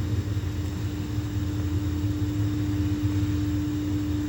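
Steady low mechanical hum with one constant tone held throughout.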